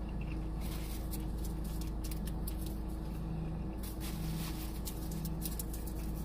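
Close-up crunchy chewing of fried okra: dense crackles and crunches that start about half a second in, over a steady low hum.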